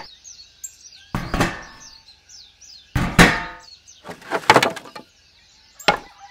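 Several separate sharp knocks, some with a short ring, about a second or so apart, with faint high bird chirps in between during the first few seconds.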